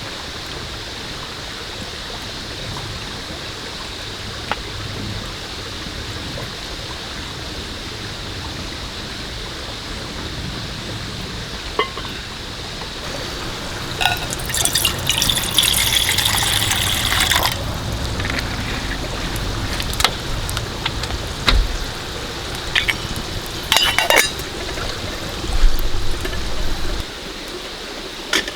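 Steady rain hiss throughout. About halfway through, liquid is poured for about three seconds, followed by scattered knocks and clinks.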